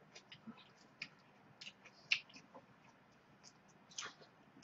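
Chewing and crunching crisp raw vegetables, heard as faint scattered crackles and clicks, the sharpest about two seconds in and another near the end.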